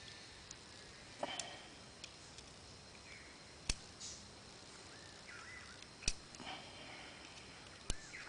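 A plastic piezo lighter being handled and taken apart by hand: three sharp clicks a couple of seconds apart, with faint handling ticks and rustles between them.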